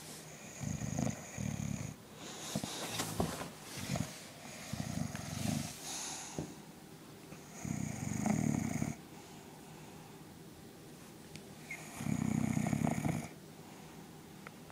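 Bulldog snoring: a series of snores at uneven intervals, several of them carrying a thin high whistle, with a gap of about three seconds before the last one.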